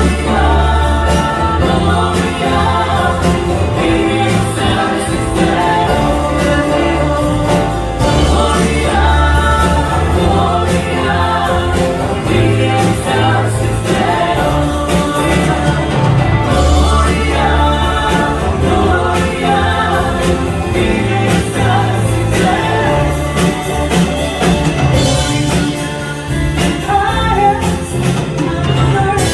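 A group singing a Christian hymn together with instrumental backing: bass, guitar and a steady beat.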